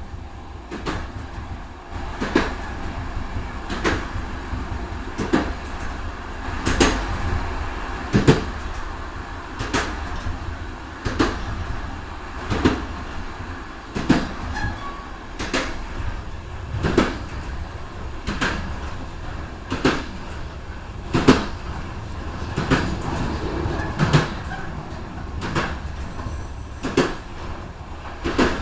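Train wheels clacking over rail joints about every one and a half seconds, over the steady low rumble of the carriage running along the track.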